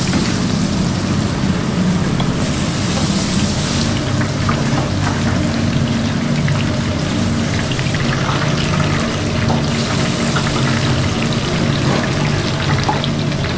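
Food sizzling on a hot cooking surface or in oil: a steady hiss with small scattered crackles, over a low steady hum.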